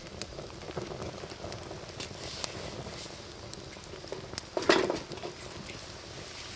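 Wood fire crackling with scattered sharp pops, over a steady patter of light rain. A brief louder sound breaks in about four and a half seconds in.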